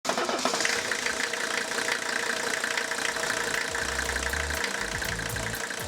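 An engine running steadily, with a fast ticking throughout.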